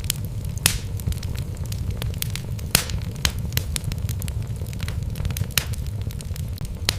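Wood fire in a fireplace crackling: a steady low rumble of burning logs with irregular sharp pops and snaps, a few louder ones standing out.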